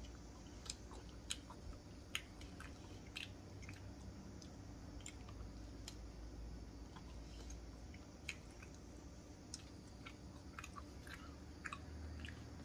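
A person chewing a soft, not crispy cheesy garlic bread roll dipped in sauce: faint, irregular wet mouth clicks and smacks.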